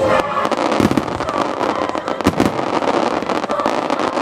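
Aerial fireworks going off in quick succession: sharp bangs of bursting shells over a continuous crackle, with a few louder reports standing out.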